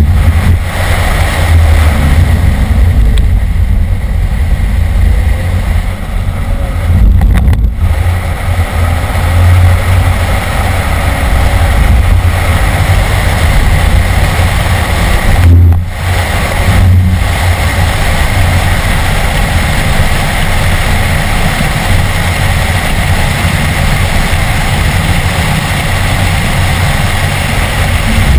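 BMW E46 M3's S54 inline-six engine heard from inside the cabin, running hard at track speed with a heavy low drone over road and wind noise. The sound drops out sharply for an instant two or three times, about a quarter of the way in and around the middle.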